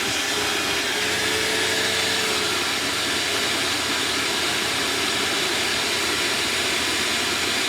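Old vacuum cleaner running steadily while its hose sucks debris off a tray, a constant rushing hiss, with a faint hum that fades out about two seconds in.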